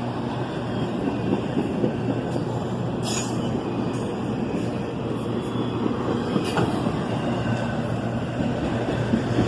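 Empty auto-rack freight cars of a slowing train rolling past on the rails, a steady rumble of wheels on track. Brief wheel squeals stand out about three seconds in and again near seven seconds.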